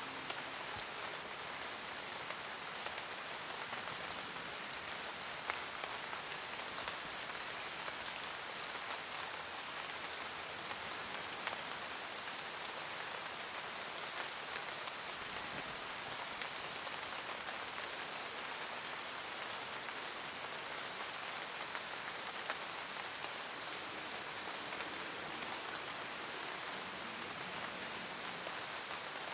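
Steady rain falling in a forest, an even hiss with scattered single drops ticking on leaves.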